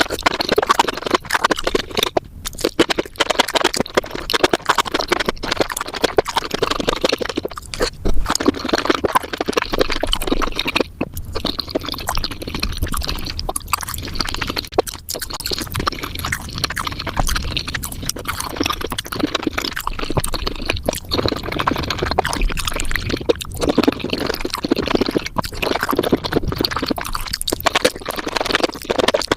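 Close-miked eating sounds of spicy mushrooms sped up: a dense, rapid stream of wet chewing, squelching and slurping clicks, with a few brief breaks.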